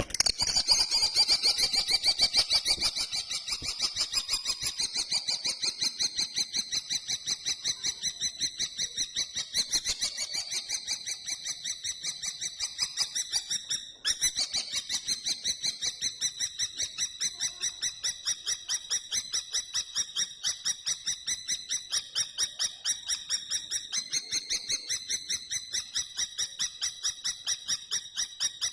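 Common kestrel calling: a long, unbroken run of high, sharp notes repeated about five times a second, pausing briefly about halfway through before carrying on.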